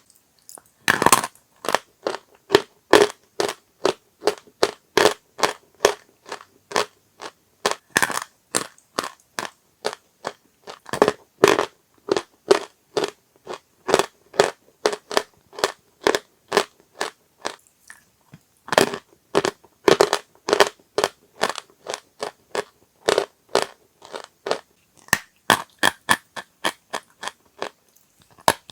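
Dry chalk being crunched: a quick run of sharp, crisp cracks, about two or three a second, broken by a few short pauses.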